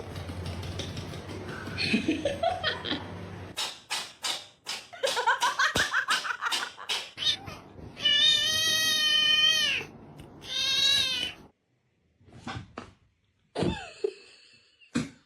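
Cats meowing across several short clips, with one long, drawn-out yowl about eight seconds in. A quick run of sharp knocks or taps comes a little before it.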